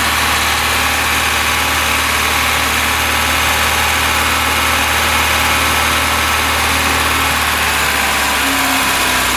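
A VAZ-21099's 1.5-litre carburettor four-cylinder engine idles steadily on choke, just started for the first time after a cylinder head rebuild. Its note shifts slightly near the end.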